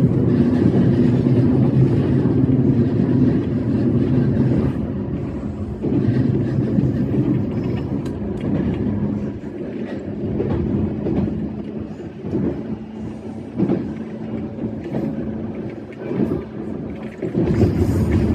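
E131-series electric train running along the line, heard from the cab: a continuous rumble of wheels on rail with a steady low hum. It eases off in the middle and grows louder again near the end.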